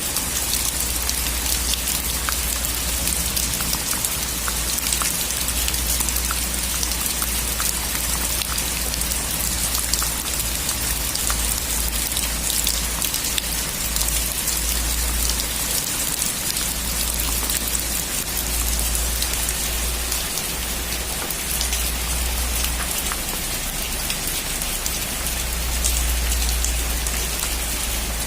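Heavy rain pattering steadily on a metal roof, with many separate drop ticks in an even hiss and a low rumble underneath.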